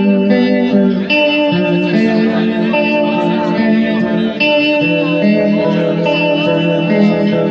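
Guitar playing a slow song live, sustained chords changing about once a second.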